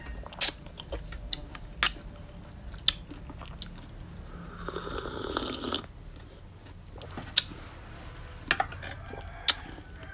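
Close-up eating sounds: chewing a mouthful of raw oyster with chili sauce, with sharp wet lip smacks and mouth clicks. About halfway through there is a drawn-out slurp as a drink is sipped from a glass.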